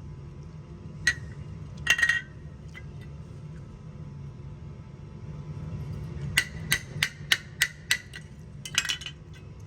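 Gas furnace burners, sooted up with char, being knocked against metal to shake the soot loose, giving sharp metallic taps and clinks. A few come early, then a run of six evenly spaced taps at about three a second, ending in a short clatter. A steady low hum runs underneath.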